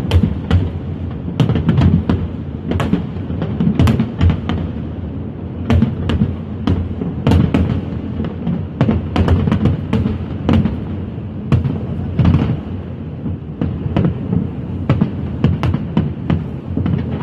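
Fireworks going off: a fast, irregular run of sharp bangs and cracks, several a second, over a continuous low rumble of overlapping bursts.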